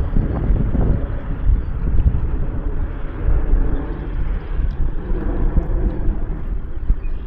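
Strong wind buffeting the microphone: a loud, low rumble that swells and dips in gusts.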